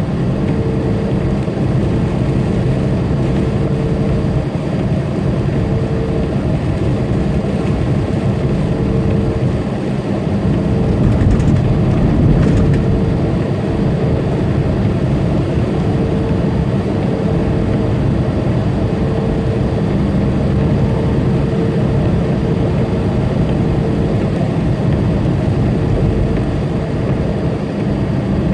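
Tractor-trailer's diesel engine droning steadily with continuous tyre and road noise at highway speed, heard from inside the cab. The noise swells briefly about eleven seconds in.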